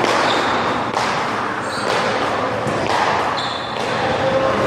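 One-wall handball rally: a small rubber handball smacking off hands, the wall and the ground about once a second, over a steady background of noise.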